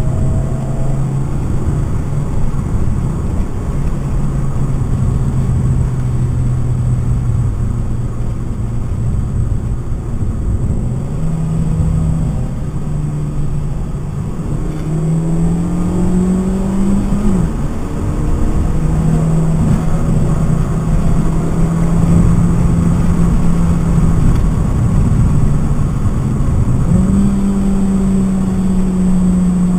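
Stock 2012 Mitsubishi Lancer's four-cylinder engine heard from inside the cabin at speed on a race track, over road and tyre noise. The engine note holds steady, then steps up and down in pitch several times as the car accelerates and slows for corners.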